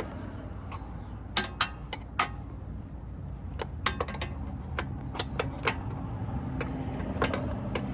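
Irregular metallic clicks and clinks of a socket wrench working a motorcycle rear-shock mounting bolt, over a steady low hum.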